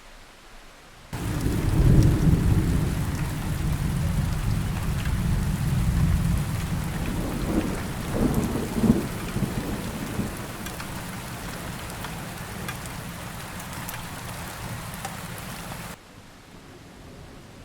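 Thunder rumbling over heavy rain. It starts suddenly about a second in, swells twice (loudest near the start and again about eight seconds in), then eases off. It cuts off abruptly near the end, leaving a quieter steady hiss of rain.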